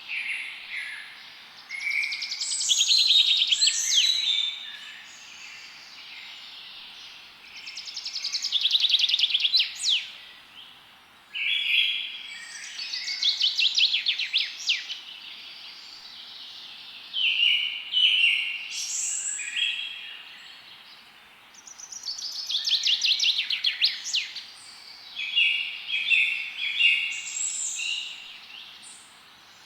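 Songbirds singing in the forest: bursts of quick trills and chirps, a phrase every few seconds, over a faint steady hiss.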